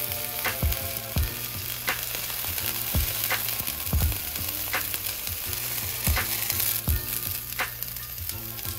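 A beef-fat-coated corn tortilla taco sizzling steadily as it fries in a hot pan, with low thumps about once a second underneath.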